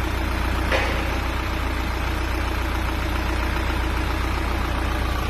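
Isuzu NPR truck engine idling steadily, run up to temperature to check the driver's overheating complaint, with one short click a little under a second in.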